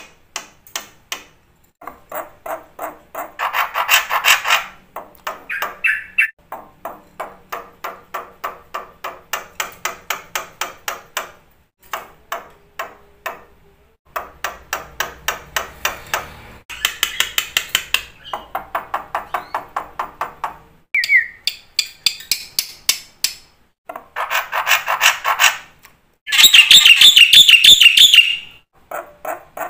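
Black-winged starling (jalak putih) singing in runs of rapid rattling, clicking notes, several a second, broken into bursts by short pauses. A brief whistle comes a little after the middle, and the loudest, densest rattle comes near the end.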